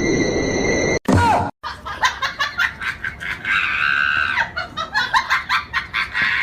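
People laughing in quick bursts, with a long high shriek or cry near the middle, after an abrupt cut about a second in.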